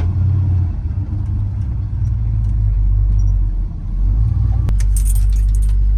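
Low, steady engine rumble of a farm vehicle being driven, with a single click a little under five seconds in.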